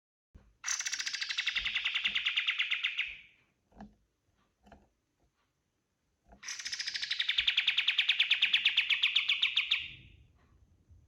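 Kapas tembak songbird singing two long, rapid trills, each about three seconds, a few seconds apart.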